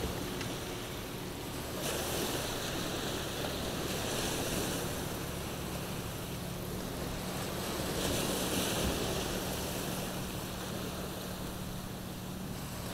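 Sea waves washing onto the shore in surges every few seconds, with wind buffeting the microphone. A faint steady engine hum runs underneath, from the tractor towing the boat up the beach.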